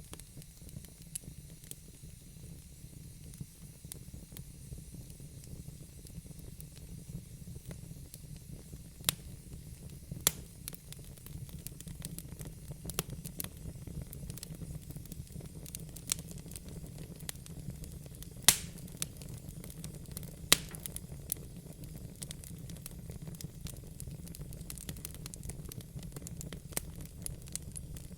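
Wood fire burning in a fireplace: a steady low rumble of flames with scattered crackles and pops, and a few louder snaps of the burning wood.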